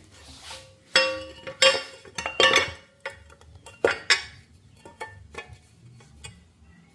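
Metal parts and tools clinking and clanking as they are handled: several sharp strikes, some ringing briefly, bunched between about one and four seconds in, then lighter ticks.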